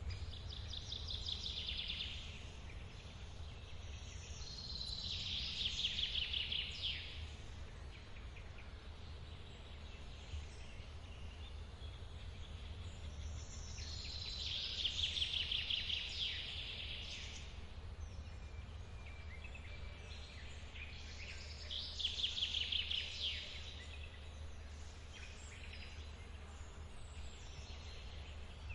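A songbird repeating a short, rapid trilled phrase four times, several seconds apart, over the steady low rush of a forest waterfall.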